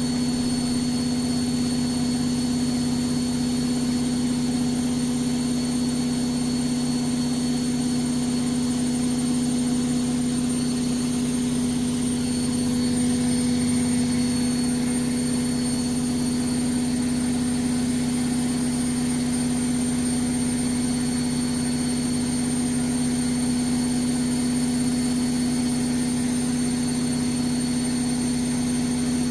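Vestel CM8710 front-loading washing machine in its final spin, the drum turning at a constant speed with a steady hum and a thin high whine.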